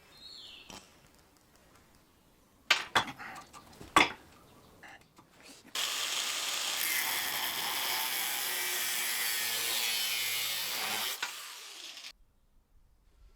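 Metalworking sounds: a few sharp knocks, then a power tool or welder running steadily for about five seconds before stopping.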